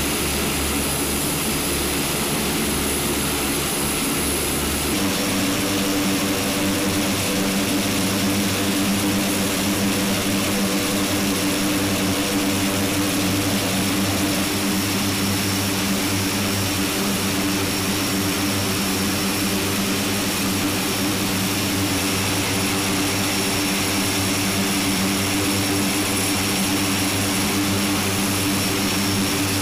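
The HC-130J's four Rolls-Royce AE 2100D3 turboprop engines running, a steady propeller drone with a high turbine whine over it. The pitch pattern shifts abruptly about five seconds in, then holds steady.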